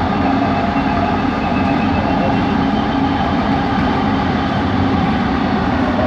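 Bombardier Innovia ART 200 metro train running at speed, heard from inside the car: a steady rumble with a faint, even motor whine from its linear induction propulsion.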